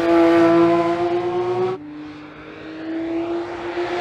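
Porsche 911 GT3 (992.1) 4.0-litre naturally aspirated flat-six at high revs on track, its note holding high and rising slightly. Just under two seconds in it breaks off abruptly, and the engine is heard again quieter and lower, its pitch climbing steadily as the car accelerates.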